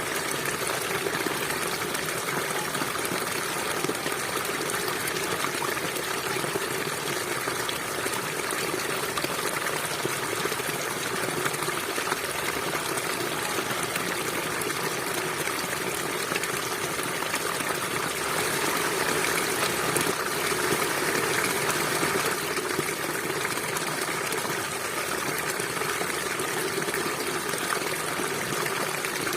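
Stream water flowing and trickling steadily, swelling slightly about twenty seconds in.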